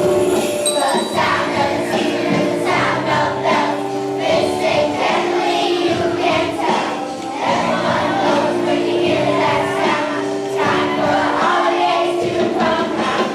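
Young children's choir singing a holiday song in unison over recorded instrumental accompaniment.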